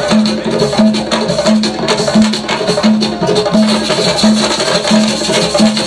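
Percussion ensemble music: many drums and sharp wood-block-like hits over a short low note that repeats about every 0.7 seconds.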